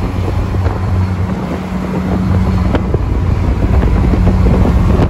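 Polaris Slingshot under way, its engine running with a steady low hum under the rush of wind on the microphone.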